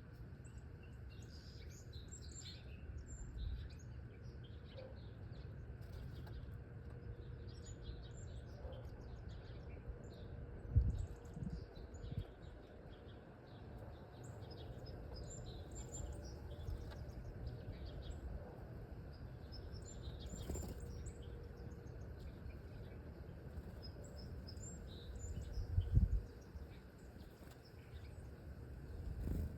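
Small birds chirping, a scatter of short high calls throughout, over a low steady rumble. A few dull thumps stand out, one about a third of the way in and one near the end.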